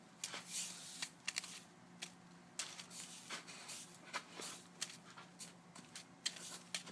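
Irregular light clicks and short rustles, over a faint steady low hum.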